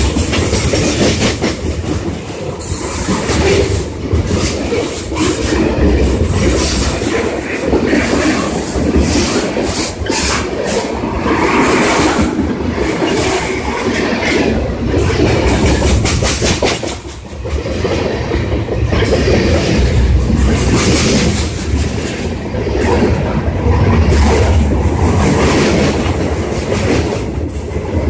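A train passing close by, its wheels clicking and clacking steadily over the rail joints, with some wheel squeal.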